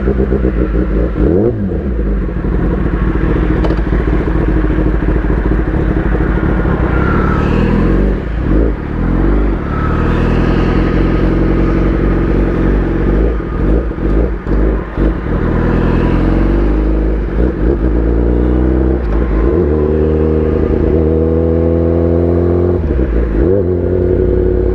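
Kawasaki ZX-10R superbike engine with an SC Project exhaust, ridden through the gears. Its pitch climbs under throttle and drops back again and again, with several brief dips in loudness.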